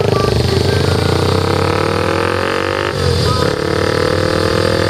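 Vehicle engine accelerating, its pitch rising steadily, with a gear change about three seconds in before it climbs again.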